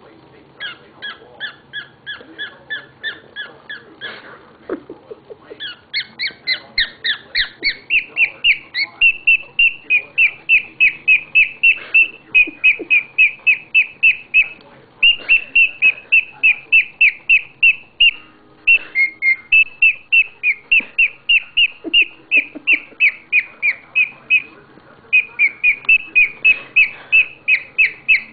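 Male cockatiel singing: a long run of quick repeated whistled chirps, about three to four a second, growing louder a few seconds in and broken by a few short pauses.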